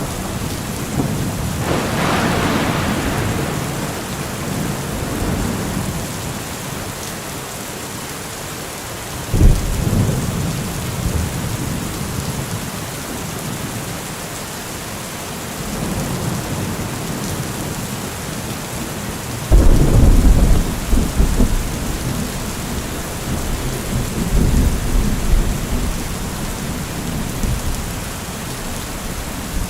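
Steady heavy rain hiss with thunder rumbling through it: deep rumbles come in suddenly about 2 seconds in, again near 9 seconds, and loudest near 20 seconds, where the rumbling rolls on for several seconds.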